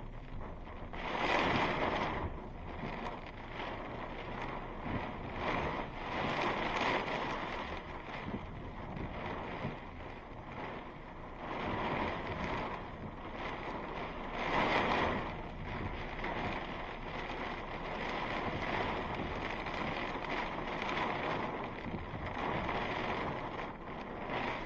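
Strong thunderstorm winds gusting: a rushing noise that swells and fades in surges, loudest about a second in and again about fifteen seconds in.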